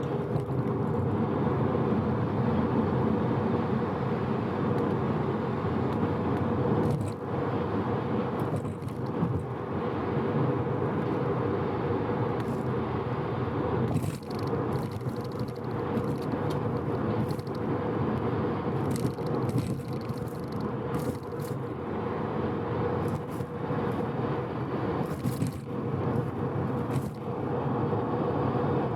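Mazda FD3S RX-7's 13B twin-rotor rotary engine running at a steady expressway cruise over tyre and road noise, holding an even pitch. The engine is freshly rebuilt and being run in gently. A few faint short ticks come through now and then.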